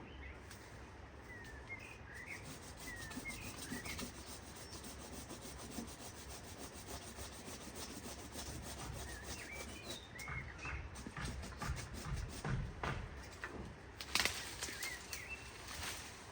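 Rapid, repeated rubbing and scraping strokes, with small birds chirping now and then.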